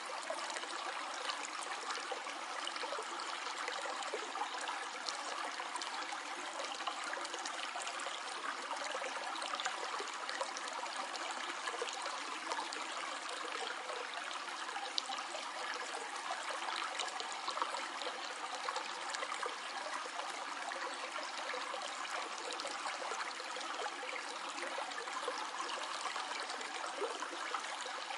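Small stream flowing and trickling steadily, with a constant splashing babble.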